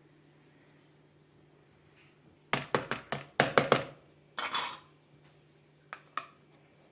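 Hard kitchenware clinking and knocking in a quick cluster of sharp strikes, then a brief rattle, with two more light clicks near the end.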